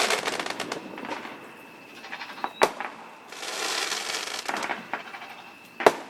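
Fireworks going off: two sharp bangs about three seconds apart, with stretches of crackling between and around them.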